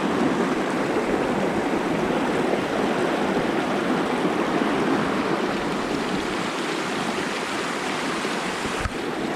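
A rocky brook running high in early spring, its water rushing steadily.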